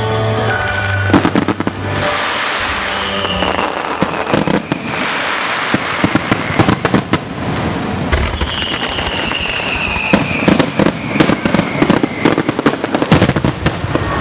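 Aerial display fireworks bursting in rapid succession, with crackling between the bangs and two long falling whistles, the bursts coming thickest near the end.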